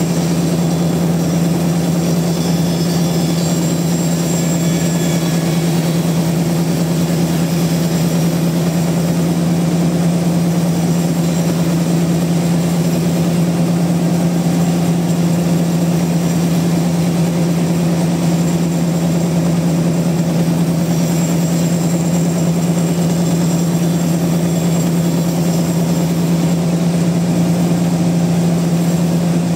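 Sawmill machinery running steadily: a loud, constant low hum with a rough mechanical noise over it that does not change.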